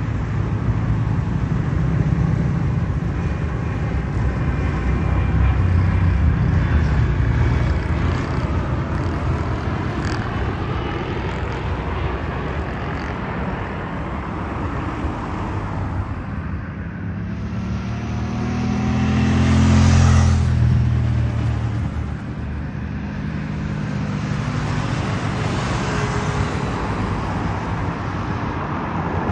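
Cessna Citation business jet's turbofan engines passing on its landing approach. The sound swells to a peak about twenty seconds in, its pitch falling as it goes by, then fades, over a steady low rumble.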